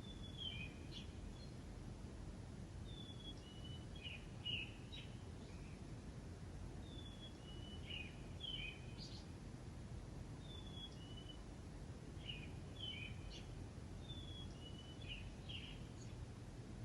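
A songbird singing a short phrase of quick falling notes, repeated about every four seconds, over a steady low rumble of background noise.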